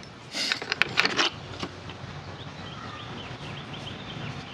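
Handling noise from tools and cable parts on a workbench: a few short clicks and clatters in the first second or so. After that, a faint steady background with small high chirps.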